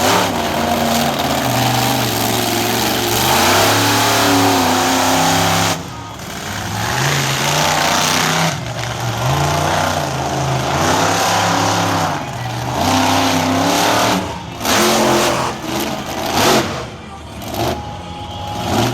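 Monster truck engine revving hard and backing off over and over, its pitch climbing and falling roughly every two seconds. In the second half the revs cut back sharply several times and surge again.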